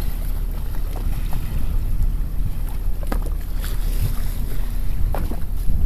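Wind buffeting the microphone aboard a moored boat: a steady low rumble, with a few light clicks and knocks from the boat about halfway and near the end.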